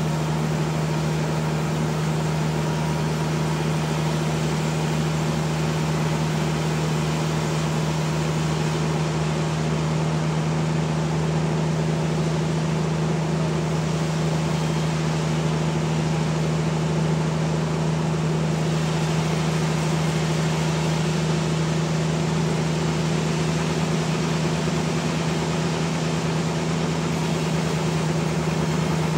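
Homemade sawmill running steadily with an even, unbroken hum, sawing a trembesi (rain tree) log into slabs.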